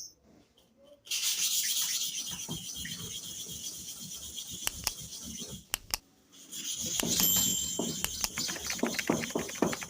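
Steel clipper blade being ground against a sharpening stone: a steady rubbing, scraping sound in two stretches with a brief break and a couple of clicks between them.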